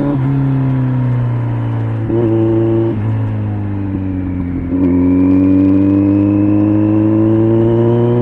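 Kawasaki Z900's inline-four engine through an LCI aftermarket exhaust, heard while riding. The note falls as the bike slows, jumps up briefly about two seconds in, then climbs steadily from about five seconds in as it accelerates.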